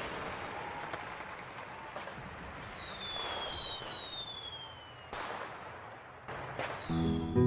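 Fireworks: whistling rockets with whistles falling in pitch, followed by two sharp bangs about a second apart.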